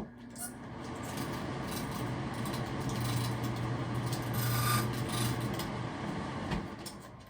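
Bathroom exhaust fan motor running with a steady hum, its fan wheel just touching the housing and rubbing with a rasping scrape as it spins. It stops near the end.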